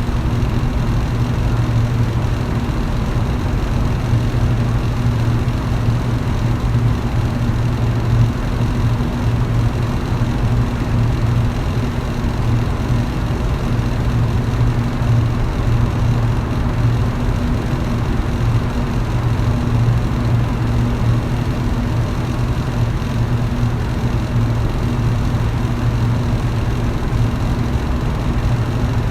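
Electric fan running steadily: a low motor hum under an even rush of air.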